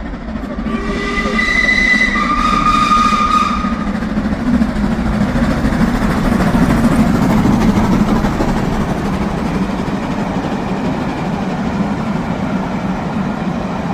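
A steam-hauled special headed by an LMS Black 5 locomotive passes through the station at speed. A high two-note warning blast sounds for about three seconds near the start, then the train's steady rumble swells and slowly eases as the coaches go by.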